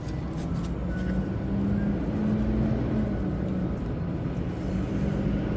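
A motor vehicle engine running nearby: a steady low rumble with a droning hum that swells slightly.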